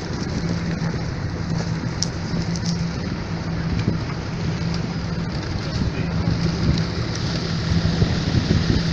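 Motorboat engine running with a steady hum, under a constant rush of water and wind noise on the microphone.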